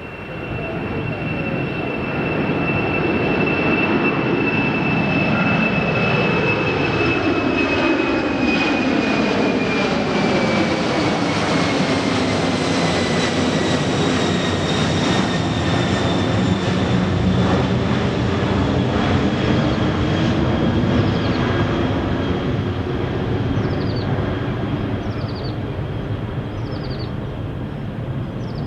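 Jet airliner's engines at takeoff power as the aircraft goes past. The rumble builds over the first few seconds, a high whine slowly falls in pitch as it passes, and the sound then fades gradually.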